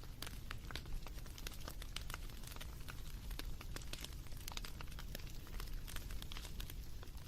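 Wood fire crackling: many irregular sharp pops and snaps over a low, steady rumble.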